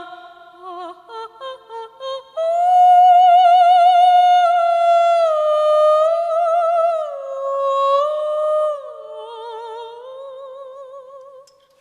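A woman singing a wordless vocalise without accompaniment. It starts with a few short detached notes, then moves into long high held notes with wide vibrato that step down in pitch and fade near the end.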